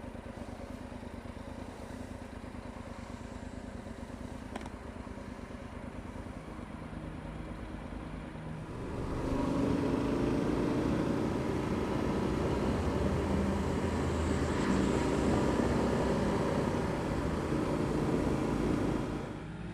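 Adventure motorcycle engine running steadily at low revs, then from about nine seconds in running louder under throttle, dropping back just before the end.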